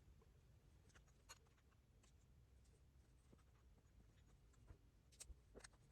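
Near silence: room tone with a few faint clicks and taps, two about a second in and a slightly louder pair near the end.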